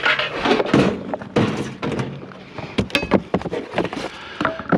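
Scrap items being handled and set down, a run of irregular knocks and thunks, with one sharp, briefly ringing clink about three seconds in.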